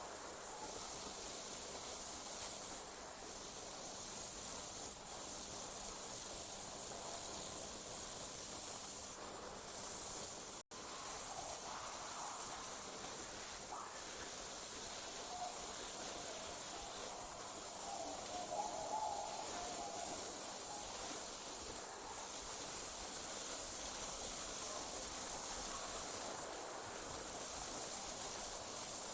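Crickets trilling in a continuous high-pitched chorus, the trill breaking off for a moment every few seconds. A split-second dropout to silence comes about ten seconds in.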